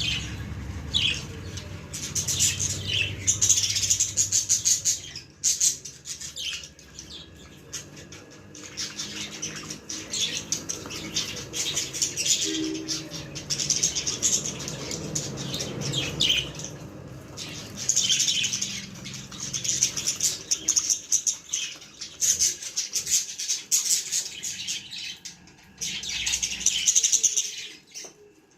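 Budgerigars chirping and chattering in rapid, high-pitched runs that come and go, with a couple of quieter spells.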